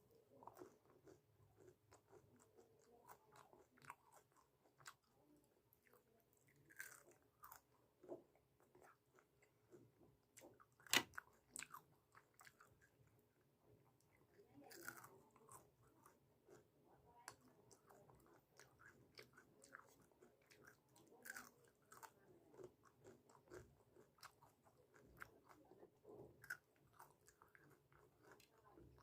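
Soft close-up chewing and biting of food, with irregular small crunches and wet mouth clicks; one sharper crunch about eleven seconds in.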